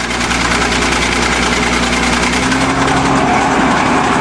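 Bulldozer's diesel engine running steadily under load while climbing a steep hill, its pitch shifting slightly about halfway through.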